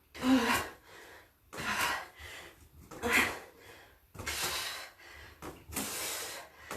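A woman's hard breathing from exertion during a bodyweight exercise: about five forceful exhales a second or so apart, some with a short voiced huff.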